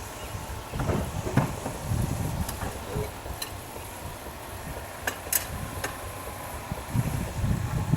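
5/8 scale Wood Brothers steam traction engine running: a steady hiss with irregular low rumbles and a few sharp clicks.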